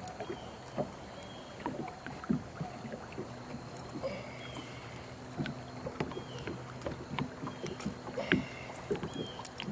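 Irregular small knocks and taps on a kayak while a just-caught striper is handled aboard.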